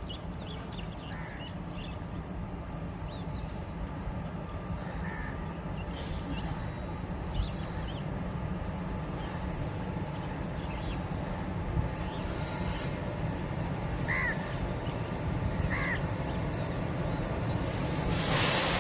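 A steady low rumble slowly grows as an approaching train nears, swelling into a louder rush near the end. A few short bird calls sound over it, two of them close together late on.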